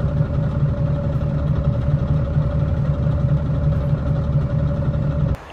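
A motor vehicle's engine running steadily, with a low, fast, even pulse and a steady whine above it. It cuts off abruptly near the end.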